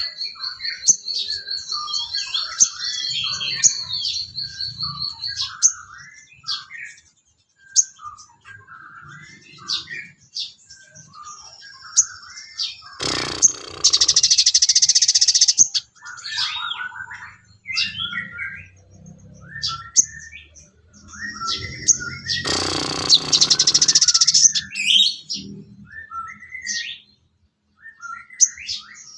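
Sogon bird song: a run of varied short chirps and whistles, opening with a fast, even high trill. Twice, at about 13 and 22 seconds in, a loud harsh, buzzing burst lasting about two seconds breaks in.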